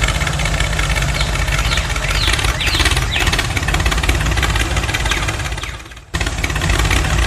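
An engine running steadily, with a break about six seconds in where the sound dips and then cuts straight back in.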